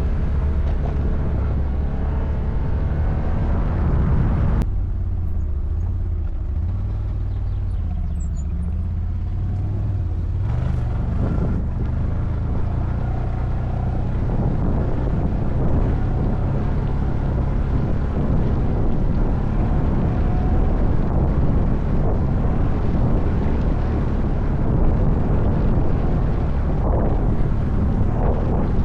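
ATV engine running steadily while riding off-road. The engine note drops suddenly about five seconds in and picks up again about ten seconds in.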